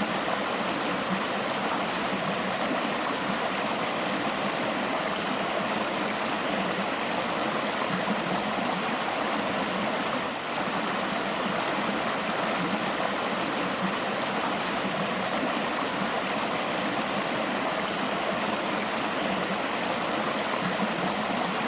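River water flowing and babbling in a steady, unbroken rush.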